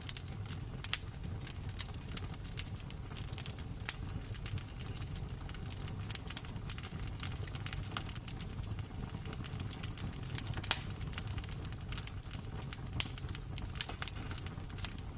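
Wood fire crackling in a fireplace: irregular small crackles and a few sharper pops over a steady low rumble of the flames.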